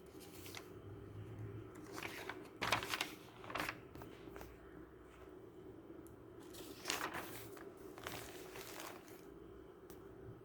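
Rustling and crinkling in short bursts, in two clusters about two seconds in and again about seven seconds in, over a steady low hum.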